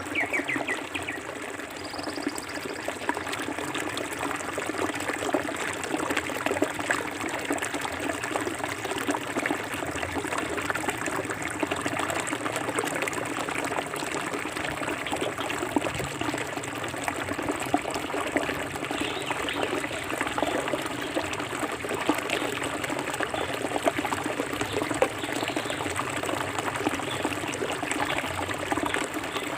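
Forest river water flowing and babbling steadily over its bed, a continuous trickling and splashing.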